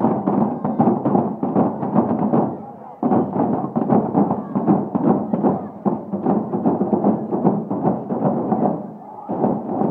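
Drums beating amid crowd noise, the beating dropping off briefly twice.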